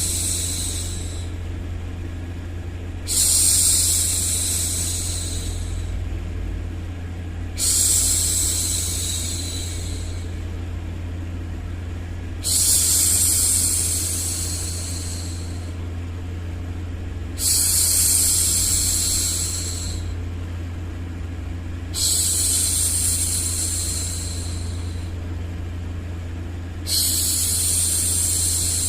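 A woman's voice making long "shhh" hushing sounds, repeated about every five seconds, each starting sharply and fading away over two to three seconds. A steady low hum runs underneath.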